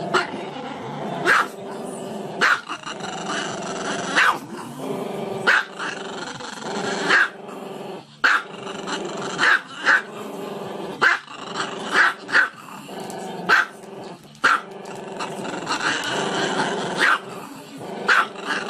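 Small dog growling continuously, broken by short sharp barks every second or so.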